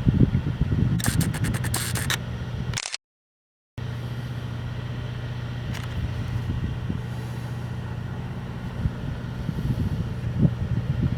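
A vehicle engine running steadily, with a burst of clattering and scraping about a second in; the sound cuts out briefly about three seconds in.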